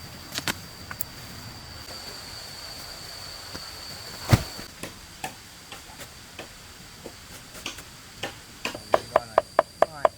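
A scatter of sharp ticks and knocks, with one louder knock about four seconds in, over a faint steady high tone. Near the end comes a quick even run of ringing ticks, about six a second.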